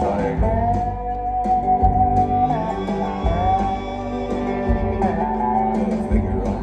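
Live country band playing an instrumental passage: guitar with a long-held lead melody that slides between notes, over a low bass pulse.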